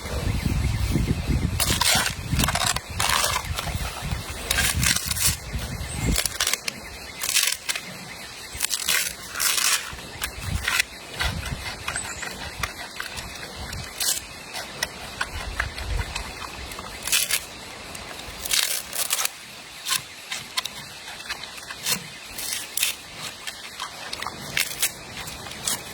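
Giant panda crunching and chewing bamboo shoots: irregular sharp crunches and snaps between smacking chews. A low rumble runs under the first few seconds.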